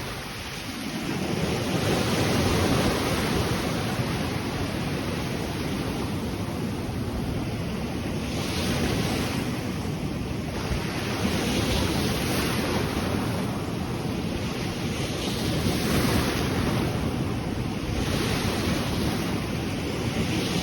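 Ocean waves breaking and washing on the shore, rising and falling every few seconds, with wind buffeting the microphone.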